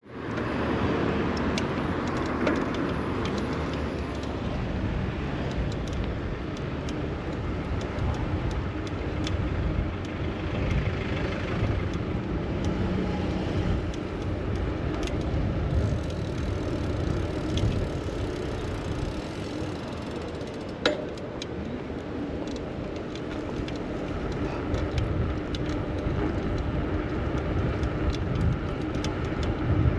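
Central London street traffic heard from a moving bicycle: a steady rumble of passing cars and road noise, with scattered small clicks and one sharp click about two-thirds of the way through.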